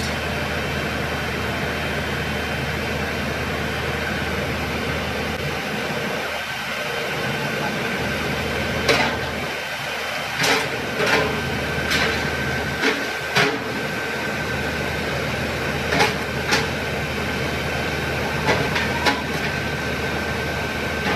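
Workshop machinery running with a steady hum and a thin high whine, with sharp metallic knocks or clinks, singly and in pairs, through the middle.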